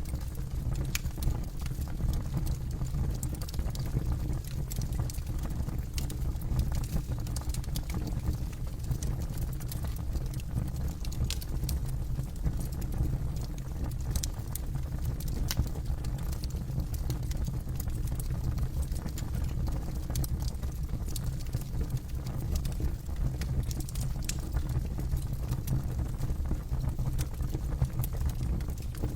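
Campfire burning: a steady low rumble of the flames with irregular sharp crackles and pops of burning wood.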